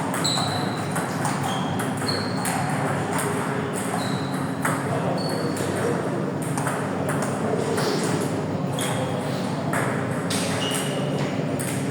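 Table tennis ball clicking off bats and table in irregular sharp taps, several with a short high ring after the hit, over a steady hall background with a low hum.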